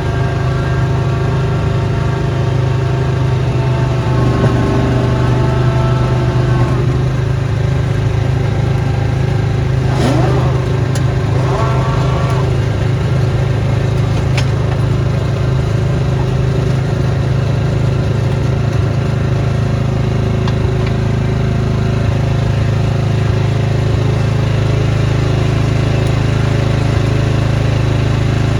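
Snowblower's small engine running steadily, with a brief rising whine about ten seconds in.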